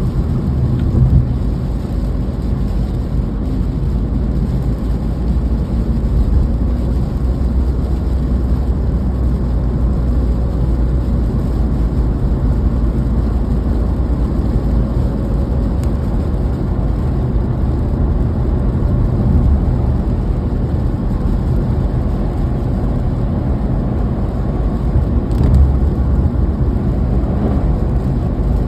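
Steady low rumble of a car driving, with a faint steady hum above it.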